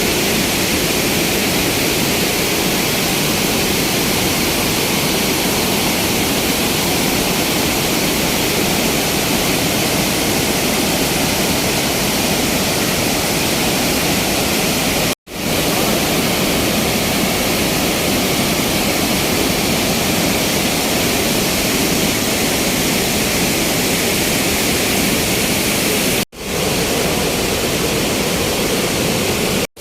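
Athirapally waterfall in monsoon flow: a loud, steady, even rush of falling water. It breaks off for an instant twice, about 15 and 26 seconds in.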